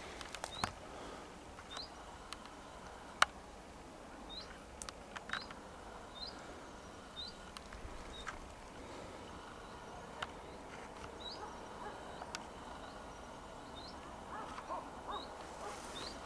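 A small bird calling with short, high chirps repeated every second or so. A few sharp clicks stand out, the loudest about three seconds in.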